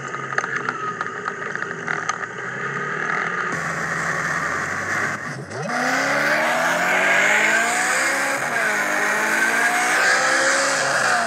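A few seconds of road and traffic noise with scattered clicks, then a car engine accelerating hard, heard from inside the car. Its pitch climbs steeply, drops at a gear change, then climbs again.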